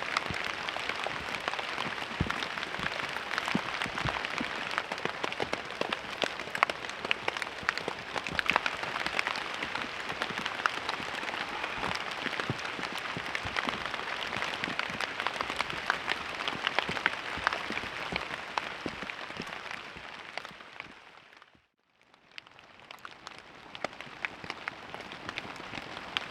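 Steady rain falling, a dense patter of many separate drop hits. The sound fades out a little before the end and fades back in.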